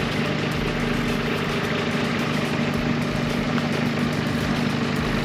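A four-wheel-drive's engine idling steadily, with a constant low hum.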